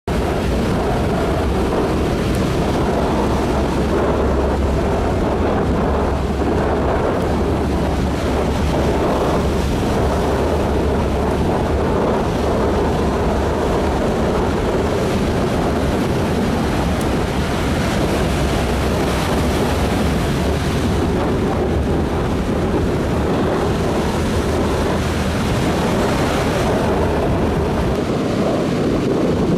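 Strong wind buffeting the microphone with a low rumble, over the steady noise of heavy surf breaking on the beach. The rumble eases near the end.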